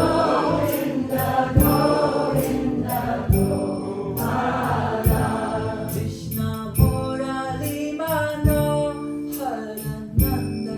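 Devotional Kṛṣṇa kirtan: voices singing a chant together over a steady drum beat struck about every second and a half.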